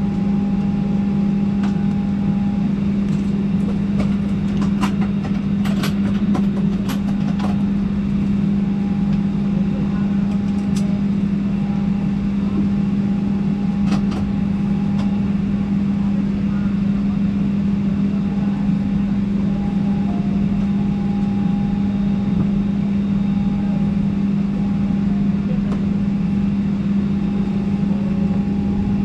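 Steady cabin drone of a Boeing 737-800 on the ground before taxi: a constant low hum with a faint higher tone that comes and goes. A few light clicks sound in the first several seconds and once more about halfway through.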